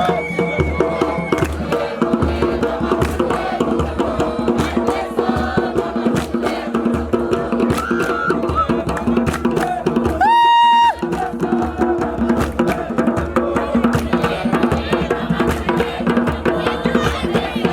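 Drumming with many percussive strokes under group singing. About ten seconds in, a single loud, shrill whistle blast lasts under a second.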